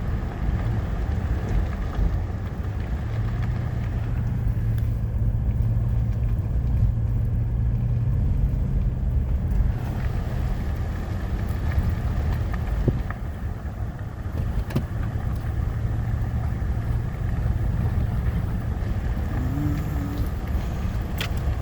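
A car driving, with a steady low engine and road rumble and a few light knocks.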